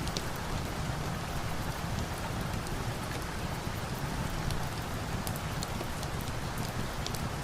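Steady rain, a dense even hiss with a low rumble beneath, with scattered sharp little crackles of a wood fire ticking through it.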